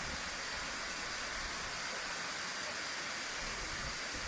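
Waterfall, heard from its base: a steady, even rush of falling water.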